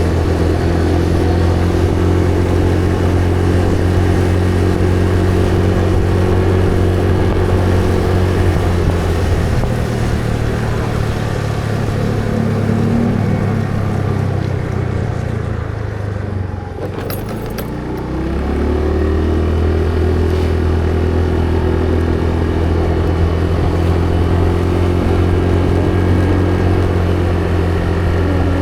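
Motor vehicle engine running steadily at road speed with road and wind noise. It changes pitch around a third of the way in, eases off briefly past the middle, then picks up again and holds steady.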